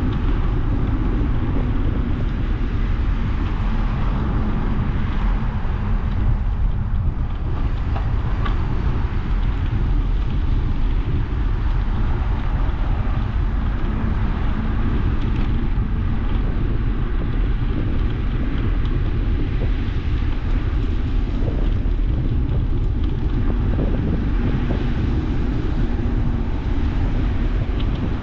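Steady wind rushing over the microphone of a camera on a moving bicycle, with a constant low rumble.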